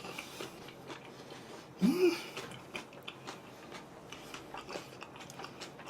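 Close mouth sounds of a person chewing a stuffed kebab, with many soft wet clicks and crunches. A brief rising vocal sound comes about two seconds in.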